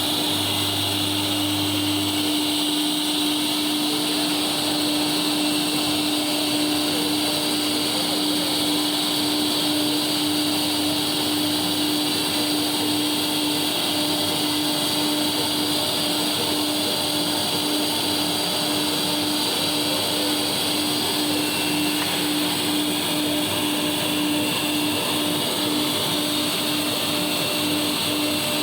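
Three-axis CNC engraving machine running with its vacuum cleaner: a steady mechanical hum and hiss with one constant tone, unchanging throughout.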